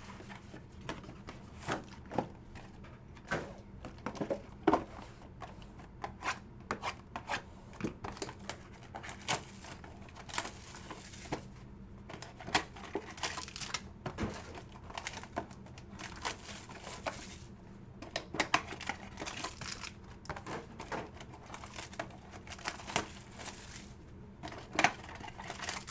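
Trading-card packs and box being opened by hand: wrappers crinkling and tearing, with scattered taps and clicks as the cards and cardboard are handled.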